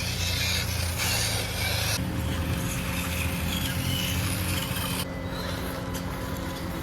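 Small electric motors and gearboxes of mini RC crawler trucks whirring as they drive. The sound changes abruptly twice, about two and five seconds in.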